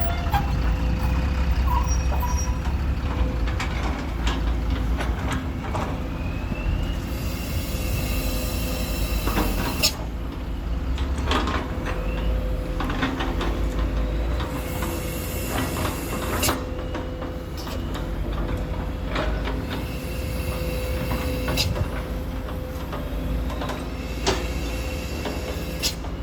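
Truck on the move: a steady low engine rumble with scattered rattles and knocks. There are two longer stretches of hiss, about a third of the way in and again a little past halfway.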